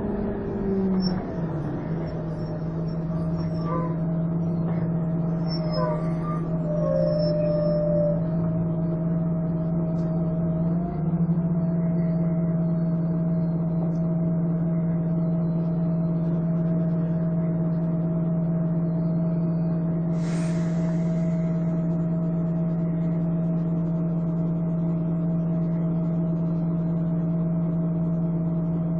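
Volvo Olympian double-decker bus running with its steady whining "hoover" drone, the pitch dropping about a second in and then holding level. A short hiss of air comes about twenty seconds in.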